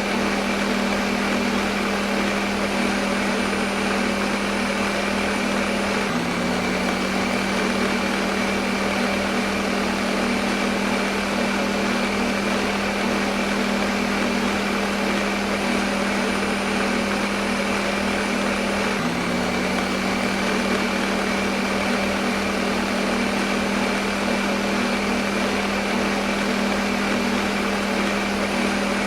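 Electric kitchen blender motor running steadily, a constant whirring hum over a noisy rush. Twice, about six seconds in and again near nineteen seconds, the hum dips slightly in pitch and settles back.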